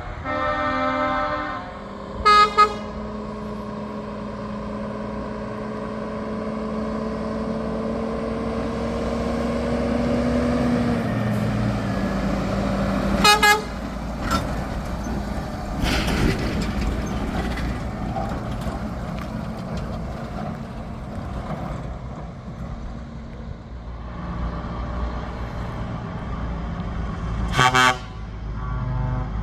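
Trucks driving past with their engines running while their horns sound repeatedly: a held blast at the start, two short loud toots about two seconds in, another about thirteen seconds in and one near the end. One engine's pitch climbs slowly as it pulls away, then drops about eleven seconds in.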